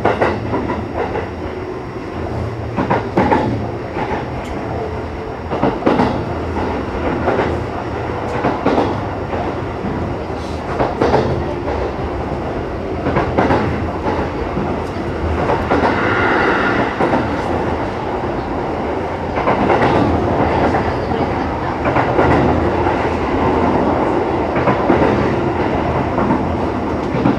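Sanyo Electric Railway 6000-series electric train running along the line, heard from inside the passenger car: a steady rumble of wheels on rail with irregular clicks as the wheels pass over rail joints. About halfway through there is a short, higher-pitched whine.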